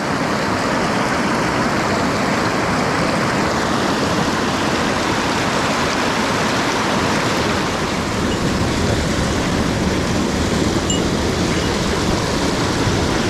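Rushing water of a mountain headwater stream: a steady, loud wash of noise with no break.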